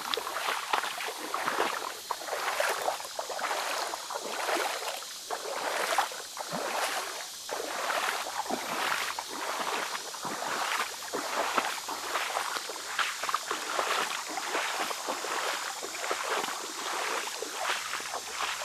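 Footsteps sloshing through shallow water on a flooded, overgrown trail, one splashy step after another at roughly a step a second.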